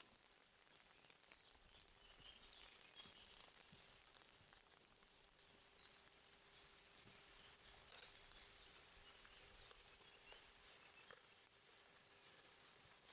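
Near silence: faint outdoor ambience with a few faint high chirps and scattered faint clicks.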